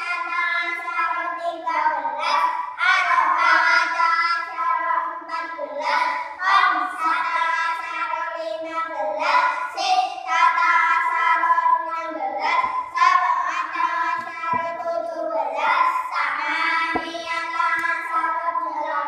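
Children singing a song in phrases with short breaks between them.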